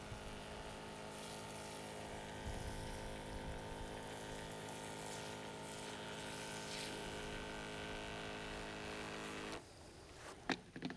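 A small motor hums steadily with a constant pitch, then cuts off suddenly about nine and a half seconds in.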